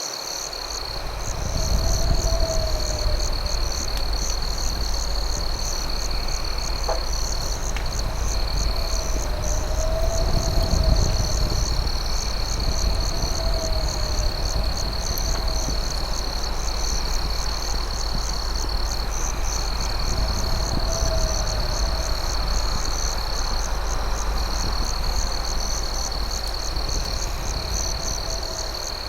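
Night cricket chorus: a steady high trill under a faster pulsing chirp, over a low rumble that comes in about a second in. Faint low warbling calls repeat every few seconds, with a single sharp crackle about a third of the way through.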